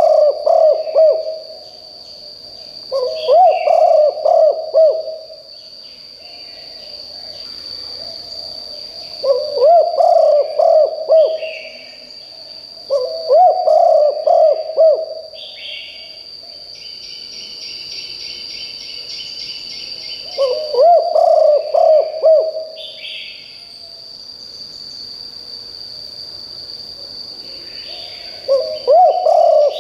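Spotted dove cooing loudly: a phrase of several low notes lasting about two seconds, repeated every few seconds, six times. Under it there is a steady high whine and fainter chirps from other birds.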